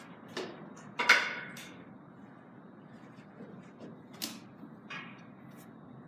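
Carom billiard balls and cue being struck during a three-cushion shot: a series of sharp clicks. The loudest comes about a second in and rings briefly, and lighter clicks follow about four and five seconds in.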